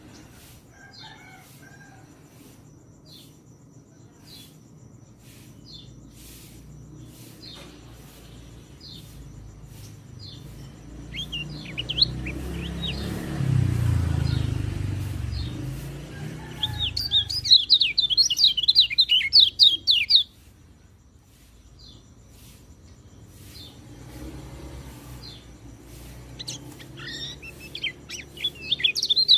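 Orange-headed thrush (peleci) song: scattered short, falling call notes, then a fast, jumbled burst of high warbling song for about three seconds past the middle, starting again at the very end. A low rumble sits under the song around the middle.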